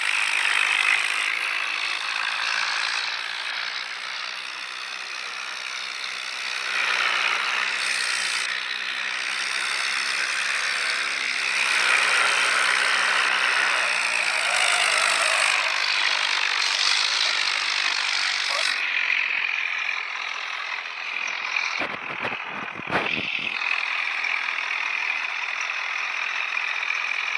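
Tractor engine running hard, with rattling.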